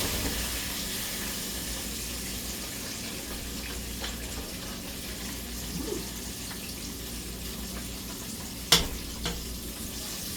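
Chicken drumettes deep-frying in hot oil with a steady, settled sizzle, the sign that they are done. A sharp clack about three-quarters of the way through.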